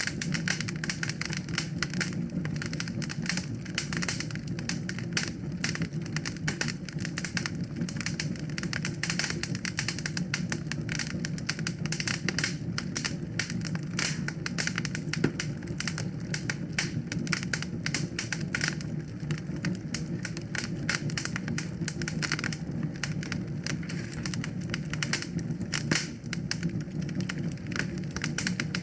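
Wood fire in a fireplace crackling and popping: dense, irregular snaps over a steady low rumble.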